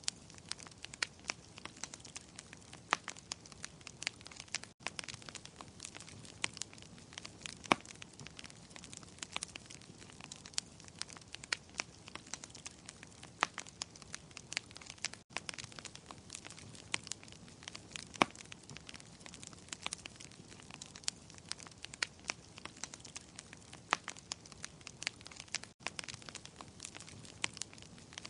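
Wood fire in a fireplace crackling: a steady soft hiss with irregular sharp pops and snaps of burning logs. The sound drops out briefly three times, about ten seconds apart.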